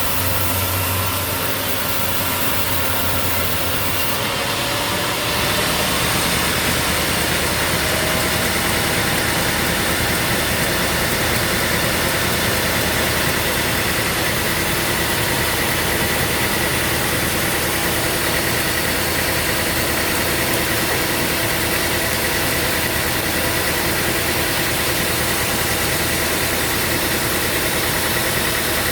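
Sawmill machinery running steadily, a motor hum with a higher whine that comes in and holds from about eight seconds in.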